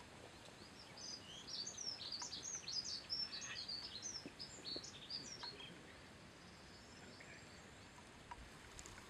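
Songbird song: a quick run of high chirping notes starting about a second in and stopping a little past halfway, over a faint, even outdoor hiss.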